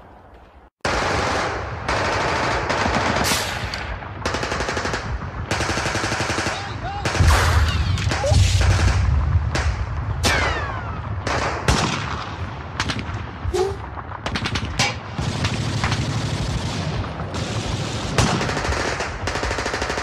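Dense bursts of automatic gunfire that cut in suddenly about a second in after a brief silence and go on without letup, with a heavy low rumble in the middle. These are battle sound effects in an audio drama about an invasion.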